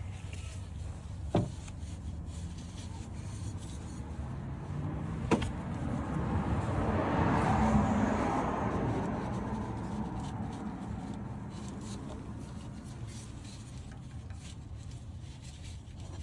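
A passing vehicle swelling up and fading away over about five seconds midway through, over a steady low rumble, with two sharp knocks in the first few seconds.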